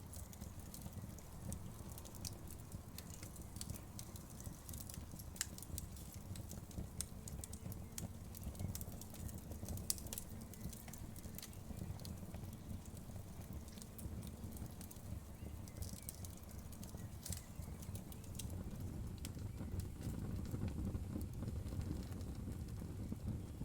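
Wood fire crackling, with irregular sharp pops and snaps over the low, steady rush of the flames. The crackles come thickest in the first half and again a little past the middle.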